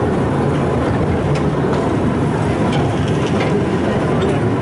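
A steady, loud rumble of a vehicle running.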